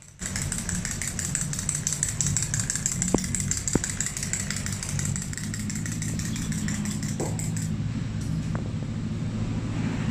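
A motor or engine running steadily with a low hum, starting abruptly, with a fast high ticking that stops about three quarters of the way through.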